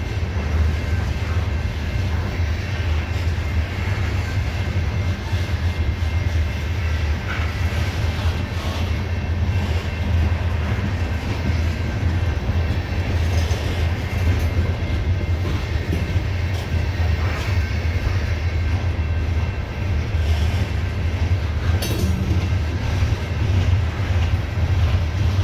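CSX coal train's steel-wheeled hopper cars rolling past on the rails close by, a steady heavy rumble.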